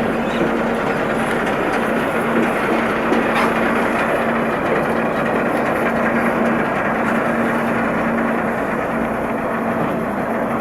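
Boat underway: its engine drones steadily under a continuous rushing noise of water and air.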